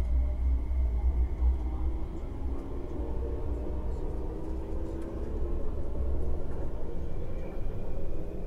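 Tuen Ma line Kinki Sharyo–Kawasaki electric train running at speed, heard from inside the car: a steady low rumble of wheels on rail, heaviest in the first couple of seconds, with a hum of several steady tones from the traction drive.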